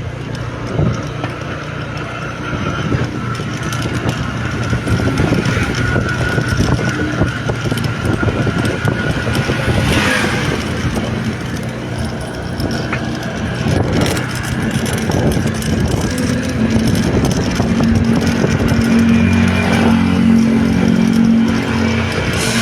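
A motor vehicle engine running steadily while on the move, with road noise. About two-thirds of the way through, a stronger, higher engine note comes in and it grows a little louder.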